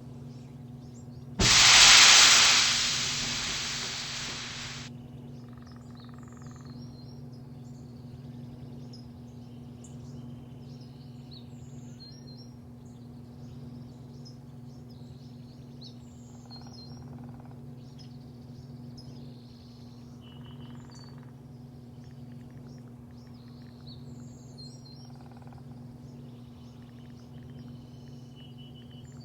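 Small birds chirping over a steady low hum. About a second and a half in, a loud hiss cuts in suddenly and fades away over about three seconds.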